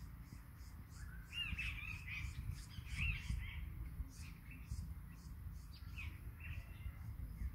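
Birds calling: a run of rising and falling chirps and warbles from about a second in, and again near the end, with short high ticks repeating about three times a second, over a low steady rumble.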